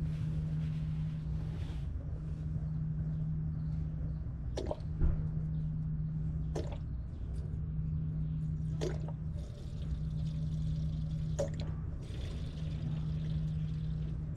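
Firewood burning in a titanium fire pit, with a few sharp pops and crackles over a steady low hum.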